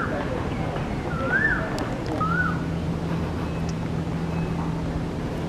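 A bird whistling short notes that rise and then fall, three of them in the first two and a half seconds, over steady outdoor background noise. From about two seconds in, a steady low motor hum runs under it.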